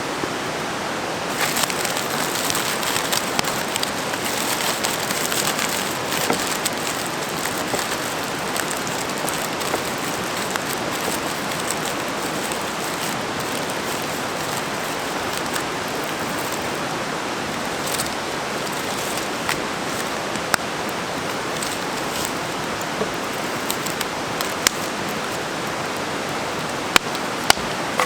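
A large river running high, rushing steadily, with a few short sharp clicks in the second half.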